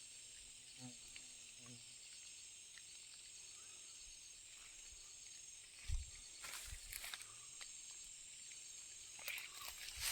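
Faint outdoor ambience with a steady high insect chorus. A short faint call sounds about a second in, a dull thump about six seconds in, and scattered knocks and rustles follow near the end.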